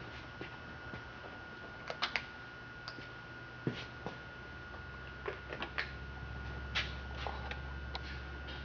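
Scattered small clicks and taps of hand handling, a few in quick pairs, over a steady thin high electronic whine and a low hum.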